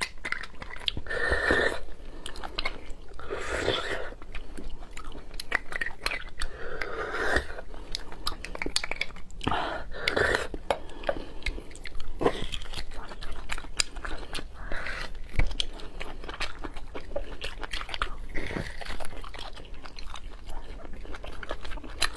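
Close-miked chewing and biting of meat from a roasted marrow bone, with many short irregular mouth clicks throughout.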